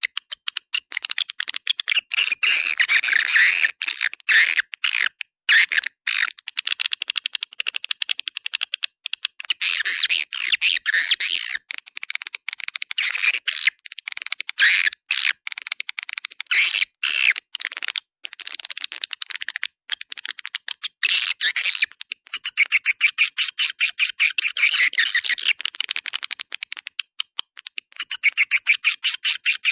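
Swiftlet calls: dense, high twittering chatter in rapid pulses with short breaks, turning into a faster, even run of clicking twitters about two-thirds of the way through. This is a call recording of the kind played to lure swiftlets into nesting houses.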